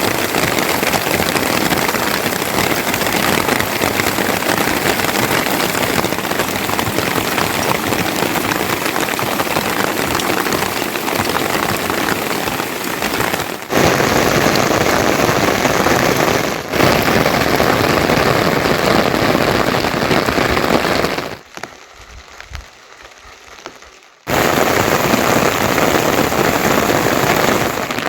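Heavy monsoon rain pouring down in a steady dense hiss. About three-quarters of the way through it drops away abruptly to a much quieter patch for about three seconds, then comes back just as loud.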